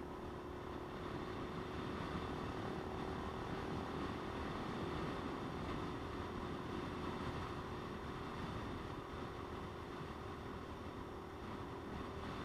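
Motorcycle riding at a steady speed: an even engine drone at one constant pitch under steady wind and road noise.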